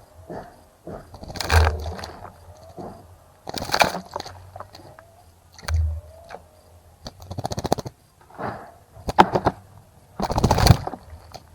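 Birds splashing and fluttering in a bird bath, in several short bursts of splashing a second or two apart.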